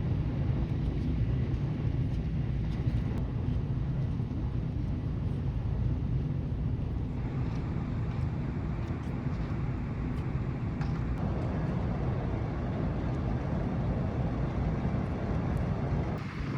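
Steady low rumble of a large car ferry under way, with wind and water noise over it.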